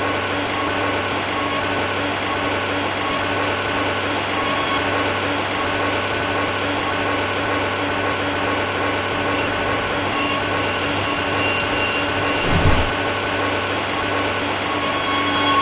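Madrid Metro 8000-series underground train running steadily: an even rushing rumble with a steady motor whine over it. A brief low thump comes about 12 seconds in.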